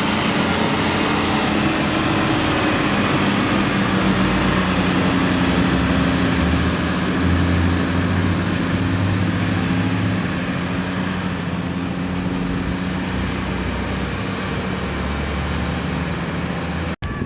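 Diesel engine of a large coach bus running close by, a loud steady hum whose low tones shift slightly in pitch.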